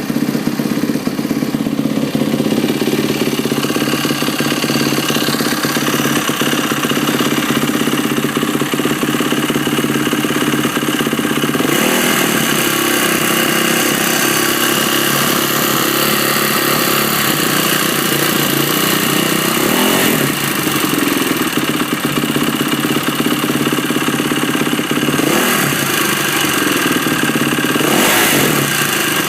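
Yamaha YZ450F single-cylinder four-stroke motocross engine idling steadily, with several brief throttle blips in the second half. The owner is asking whether a noise from the engine is normal.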